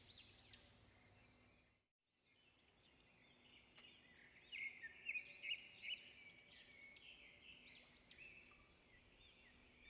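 Faint birdsong: short, high chirps repeating, loudest from about halfway through.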